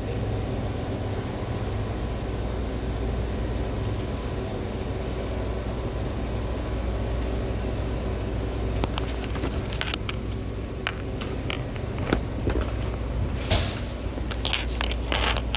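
Steady low hum of a sandwich shop's machinery, with scattered clicks and short rustles of food preparation at the counter; the loudest is a brief rustle about 13 seconds in.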